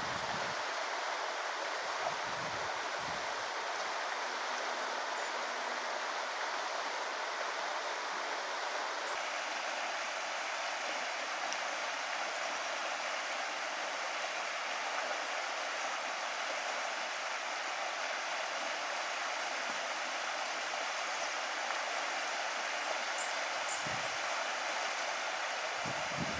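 Small river flowing over stones, a steady rushing of water.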